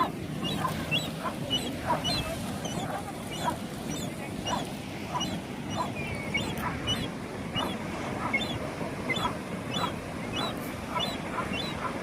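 A flock of birds calling, with many short, high calls repeating about two or three times a second.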